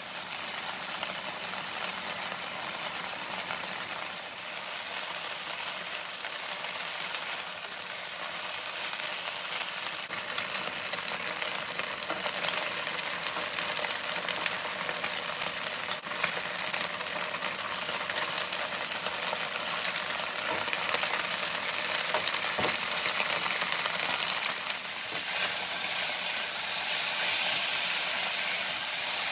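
Pork, onion and pickles sizzling in a hot wok as they are stir-fried, with a silicone spatula scraping and tapping the pan now and then. The sizzle grows louder near the end.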